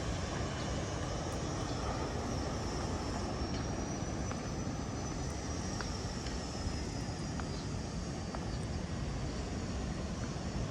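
Steady low roar of ocean surf breaking below, with faint scattered ticks and a faint thin high tone that drifts slightly in pitch.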